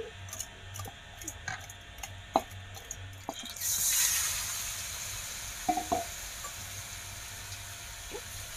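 A few light clinks and knocks as spice-coated vegetable pieces are mixed by hand in a steel bowl. About three and a half seconds in, the pieces hit hot oil in a wok and start sizzling loudly. The frying then settles into a steady sizzle, with a brief scrape of a spatula near the middle.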